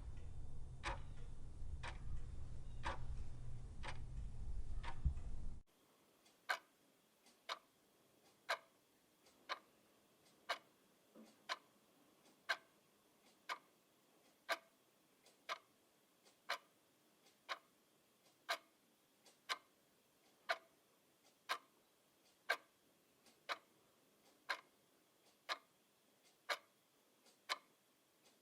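Clock ticking steadily, about one tick a second. For the first five seconds or so a loud low rumble runs under the ticks, then cuts off abruptly, leaving the ticks alone with faint smaller clicks between them.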